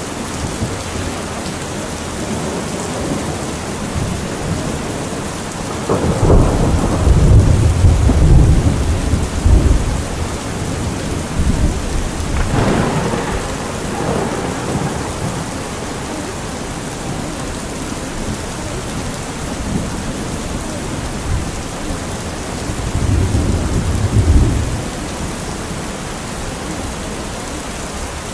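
Steady rain with thunder rumbling. Heavy rolls come about six seconds in and again about twenty-three seconds in, with a sharper clap around twelve seconds in.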